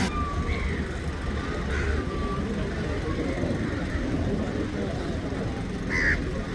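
Steady low rumble of motor-vehicle noise outdoors, with a few faint short higher sounds; a brief chirp near the end.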